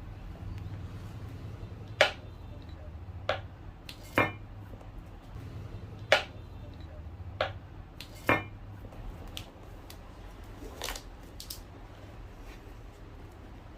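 A street cobbler's tools at work on a shoe: about seven sharp clicks and clinks at uneven intervals, over a low steady hum.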